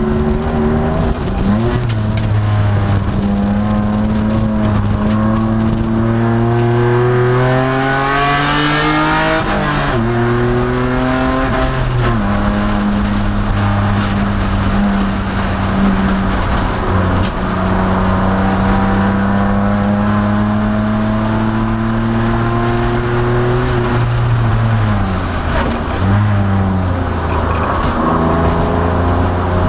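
2002 Nissan Maxima race car's V6 engine under hard acceleration on track, its pitch climbing through each gear, with sudden drops at the gear changes. There is a long steady stretch in the middle, then a dip for braking and downshifting before it pulls again near the end.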